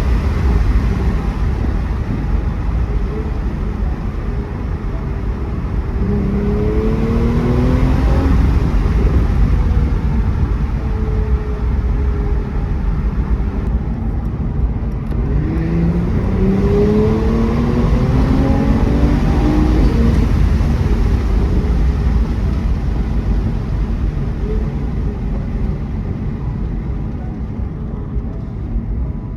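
Mercedes-AMG E43's twin-turbo V6 under way, with a steady rumble of road and tyre noise. The engine note rises in pitch twice as the car accelerates: about six seconds in, and again from about sixteen seconds in.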